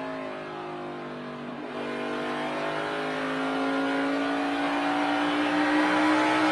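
NASCAR Cup car's V8 heard from the in-car camera, its pitch falling for the first second and a half as the driver comes off the throttle for a corner, then rising steadily as he accelerates back onto the straight.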